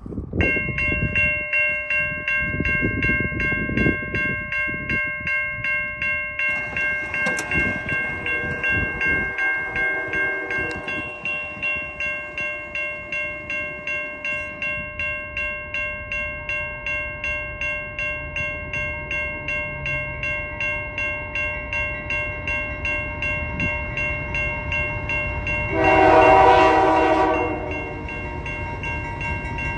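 Locomotive mechanical bell on a CN C44-9W freight ringing steadily over the diesel engines' rumble, then near the end one long blast of its K3L air horn, about two seconds long and the loudest sound.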